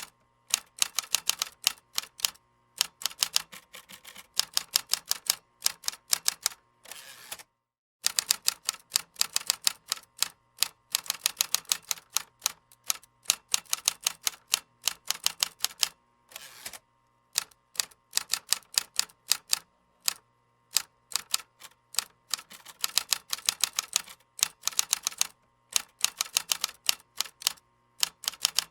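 Computer keyboard typing: quick runs of crisp keystroke clicks, several a second, broken by short pauses.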